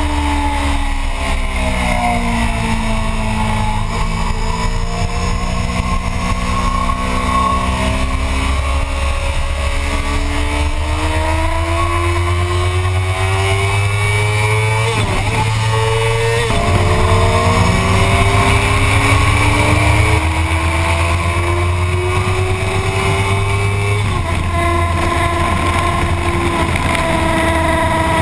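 Motorcycle engine heard from on board at track speed: its pitch falls over the first few seconds as the bike slows, then climbs steadily under acceleration, broken by two quick gear changes about halfway through and an upshift with a drop in pitch later on. A steady low rumble of wind on the microphone runs underneath.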